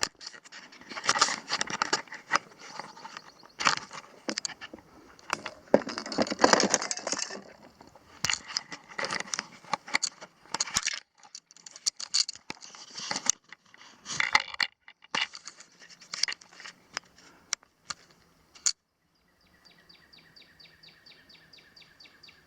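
Irregular clinks, clatters and rustles of gear being handled, dense for most of the time. They stop about three-quarters of the way through, leaving only a faint steady background.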